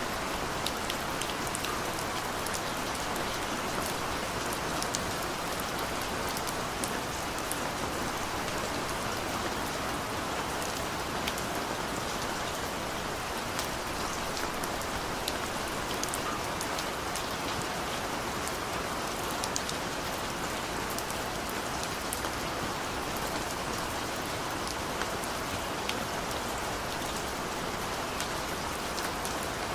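Steady rain falling on a surface, an even wash of sound with individual drops ticking through it.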